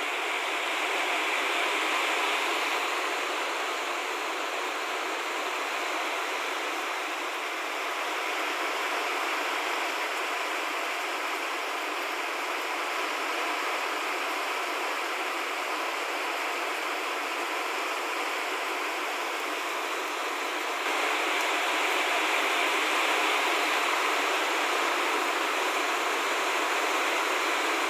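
Steady rushing noise with no clear tone or rhythm, stepping a little louder about 21 seconds in.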